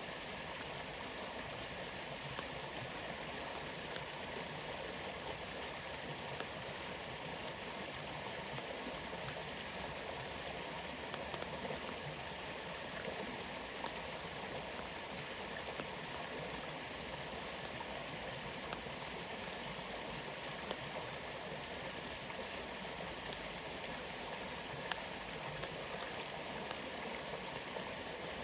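Steady rush of flowing water, with a few faint ticks scattered through it.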